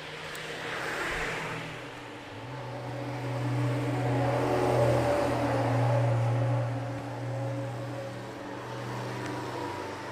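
A motor running with a steady hum, which drops in pitch and grows louder about two seconds in.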